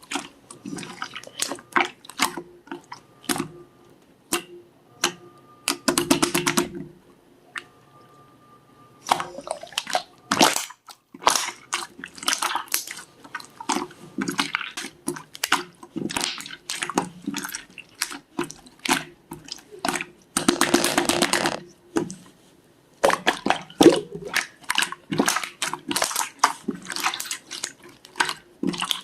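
Slime being squished and pressed by hand: quick irregular runs of sticky, wet clicks and pops, with a couple of longer crackling stretches and short pauses between handlings.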